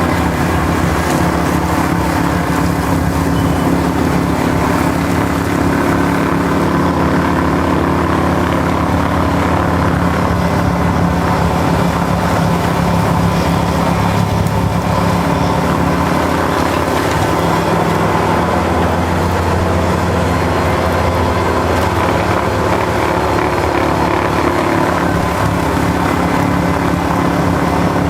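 Kubota L5740 tractor's diesel engine running steadily under load, its note shifting a little around the middle.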